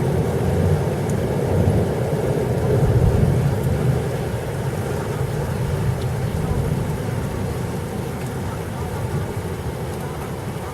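Rain falling with a low rumble of thunder that swells about three seconds in and then slowly dies away.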